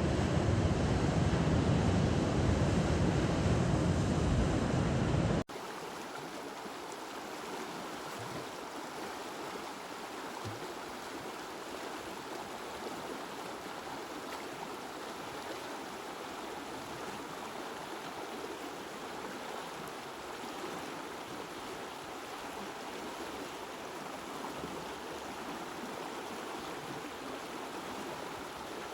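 Loud rushing water with a deep rumble, cut off abruptly about five seconds in and replaced by the quieter, steady rush of flowing water.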